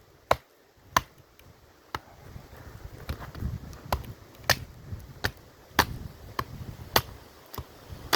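A wooden stick striking the spine of a knife to drive its blade along the grain through a small log (batoning), a dozen or so sharp knocks at about one to two a second.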